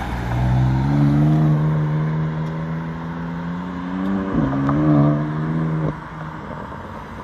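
BMW M4 convertible accelerating away, its engine pitch climbing, with a quick upshift about four seconds in that drops the pitch before it climbs again. About six seconds in the engine falls away suddenly, leaving only traffic noise.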